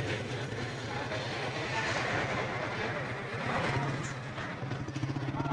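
A motor vehicle engine running steadily, with a low, even hum.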